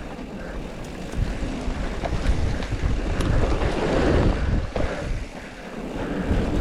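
Wind noise buffeting the microphone of a mountain biker riding down a trail, a rushing roar with low rumble that swells from about a second in and is loudest about four seconds in, with a few light clicks and rattles.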